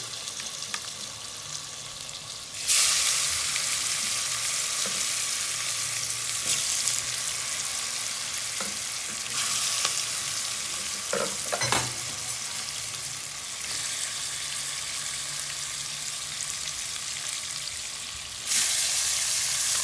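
Seasoned chicken back frying in hot oil with curry and garlic, sizzling steadily with occasional stirring. The sizzle jumps louder about two and a half seconds in and again near the end.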